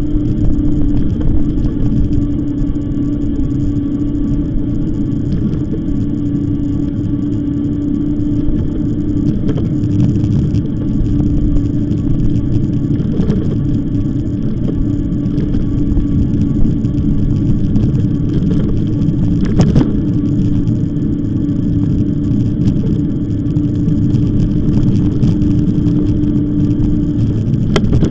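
Riding an e-bike: heavy wind and road rumble on the microphone, with a steady hum that stops shortly before the end.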